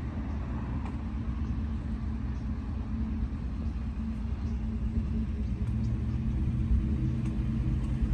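Vehicle engine running steadily, a low rumble with a faint hum.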